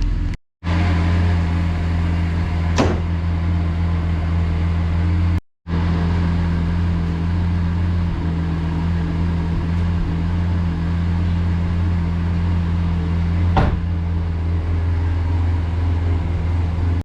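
Lamborghini Aventador's V12 idling steadily, shortly after its first start following six months of storage. Two sharp clicks sound over the idle, one about 3 seconds in and one near the end, and the sound cuts out briefly twice early on.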